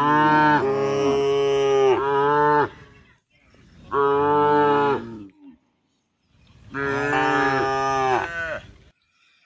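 A cow mooing three times: long, loud calls of one to three seconds each, separated by short pauses.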